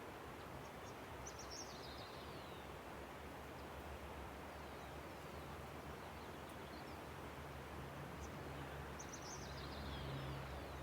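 A river rushing steadily, with birds calling over it in quick high chirps that slide downward, one flurry about a second in and another near the end. A low rumble grows toward the end.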